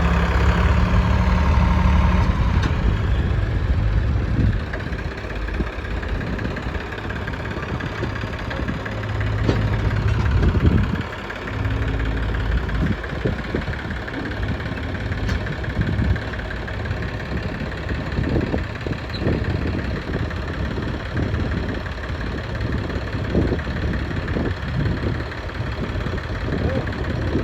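Diesel engines of a JCB backhoe loader and a tractor running while soil is loaded. The engine works harder and louder in the first few seconds and again about ten seconds in, and drops back sharply after each spell. Scattered knocks and thumps come through in the second half.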